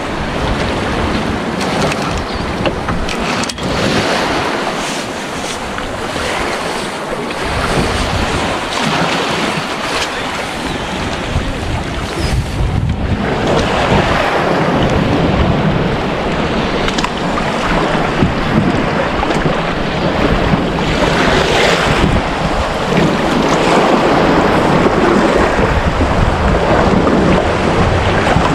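Wind buffeting the microphone over the wash of water against a small boat, a steady rushing noise that grows a little louder about halfway through.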